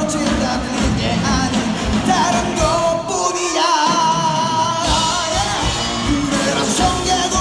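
A pop-rock song with a singer over band backing. About three seconds in, the bass and drums drop out briefly while the voice holds a long note, and then the band comes back in.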